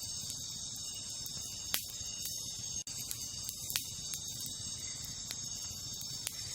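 Wood campfire crackling, with scattered sharp pops, two louder ones about two and four seconds in. Behind it is a steady, high chorus of night insects such as crickets.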